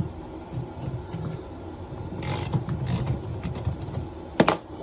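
Ratchet wrench clicking as it is worked back and forth to turn a puller drawing a tight compression ring off a copper supply pipe, with a few sharper metallic clicks.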